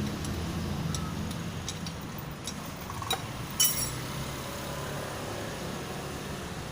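Light metallic clinks and taps of tools and engine parts being handled during motorcycle engine assembly, about a dozen scattered through, with one louder ringing clink about three and a half seconds in, over a steady low hum.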